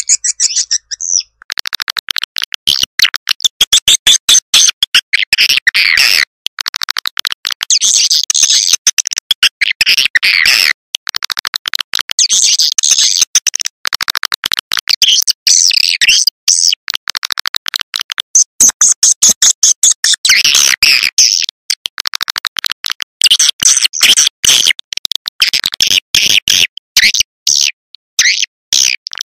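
Swiftlet lure recording: a dense, loud stream of rapid, high-pitched twittering chirps of swiftlets, broken by short gaps, starting up about a second and a half in after a softer call.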